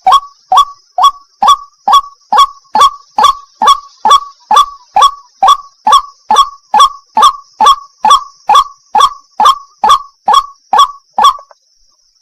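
White-breasted waterhen's 'wak' call, a loud note repeated about twice a second in a long, even series, over a steady high hiss. The calls and the hiss stop together about eleven seconds in, and the calling starts again a second later.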